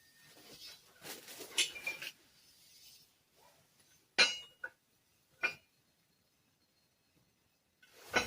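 Steel engine-stand parts being handled: a stretch of rustling and scraping, then three sharp metallic clinks spread over several seconds as pieces knock together or are set down.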